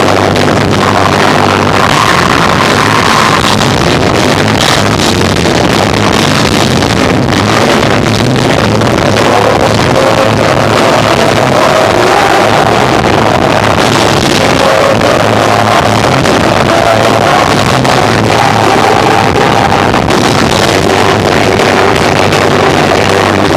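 Live rock band of electric guitar, bass and drums playing continuously and loud, recorded through an overloaded microphone so the sound is heavily distorted and smeared.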